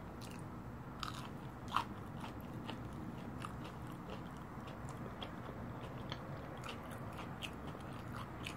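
A person chewing and biting into a fried fish nugget: faint small crunches and mouth clicks scattered throughout, with one louder crunch a little under two seconds in.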